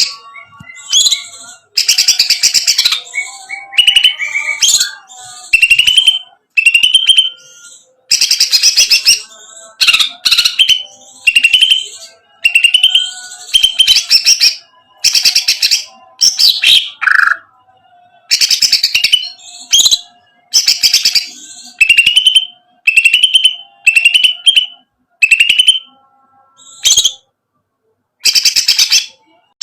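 Cucak ijo (green leafbird) singing loud, fast phrases of a second or two each, repeated again and again with short pauses. This is the 'trotol' song used as a lure to set other cucak ijo singing.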